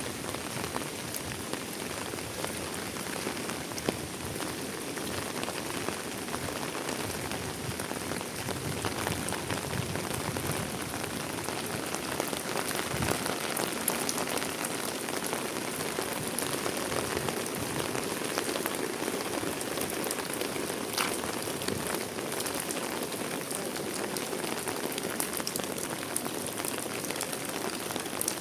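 Steady heavy rain falling, with many separate close drop hits over an even rush.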